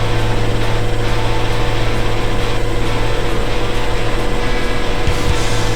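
Harvest machinery engine running steadily under load, a constant loud drone with a strong low hum.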